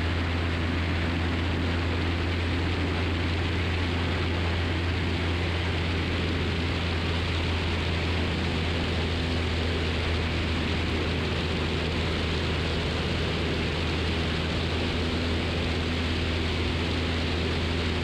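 Steady drone of a 1969 Cessna 172's four-cylinder piston engine and propeller in flight, a constant low hum under airflow hiss, with no change in power.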